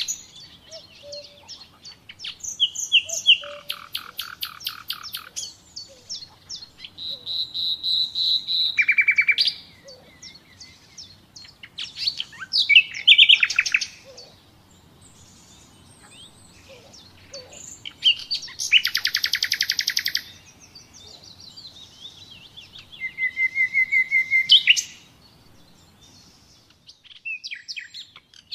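Nightingale singing: a run of varied phrases, each a fast row of repeated notes or a trill lasting a second or two, with short pauses between phrases.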